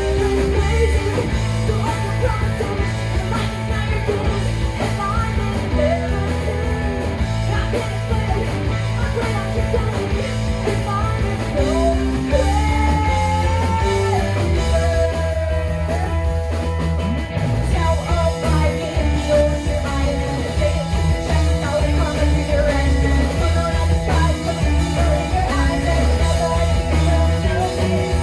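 A rock band playing live, guitar over a heavy, steady low end, with bending melodic lines.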